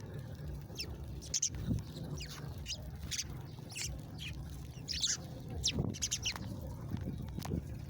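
Small songbirds chirping: many short, quick down-slurred chirps in an irregular string, over a steady low rumble.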